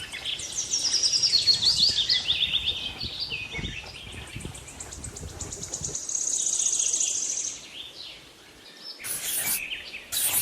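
Small birds chirping and twittering, with a fast trill about six seconds in, and two short rushes of noise near the end.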